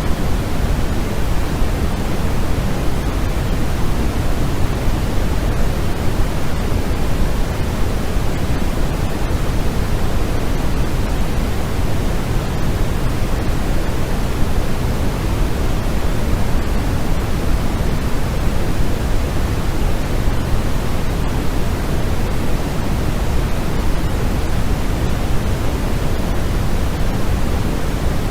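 Continuous synthetic noise played as a sleep aid, steady and unchanging, with more weight in the low end than the high, like pink noise.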